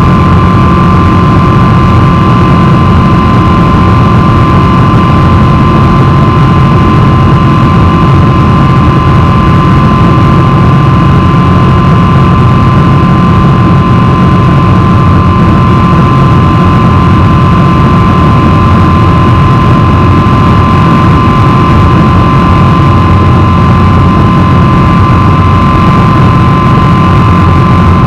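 Boeing 777-300 airliner's jet engines heard from inside the cabin, running steadily under power: a constant low rumble with a steady high whine over it.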